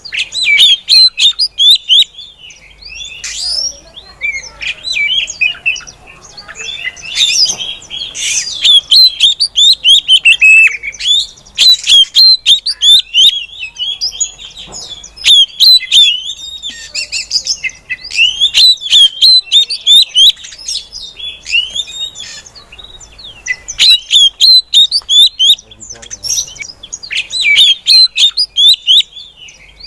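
Female Oriental magpie-robin (kacer) calling: rapid runs of short, high chirps and harsher squawky notes. The runs come in loud bursts separated by brief pauses.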